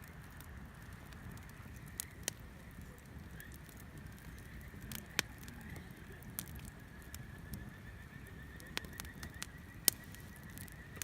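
Wood bonfire burning with a low rumble and scattered sharp crackles and pops, the loudest near the end. A faint thin high whistle runs underneath, growing stronger in the second half.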